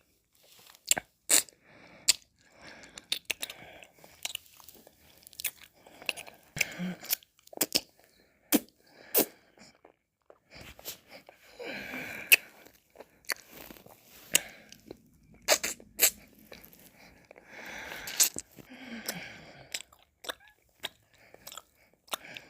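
Close-miked mouth sounds of eating and licking ice cream: irregular wet lip smacks and sharp mouth clicks, with short stretches of licking and slurping.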